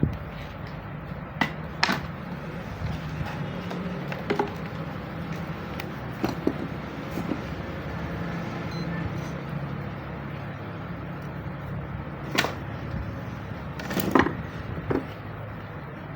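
A handful of sharp clicks and knocks, a few seconds apart, from handling parts, leads and switches on an electronics workbench, over a steady low hum.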